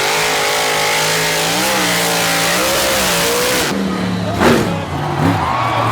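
Monster truck engine running, its pitch wavering over a loud hiss, then revved in quick blips about four and a half seconds in.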